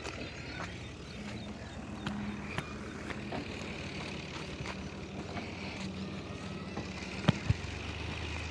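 A vehicle engine running steadily, with scattered light clicks and two sharp knocks near the end.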